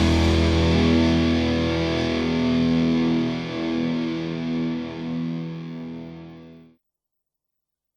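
Closing chord of a hard rock song ringing out on distorted electric guitar, fading away before cutting to silence near the end.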